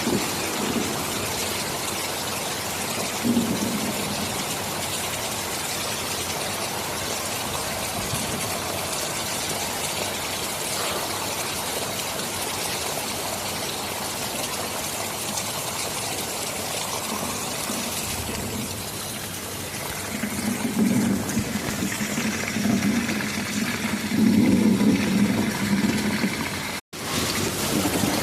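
Heavy rain falling steadily, with a low rumble of thunder swelling in during the last several seconds. The sound cuts out for an instant near the end.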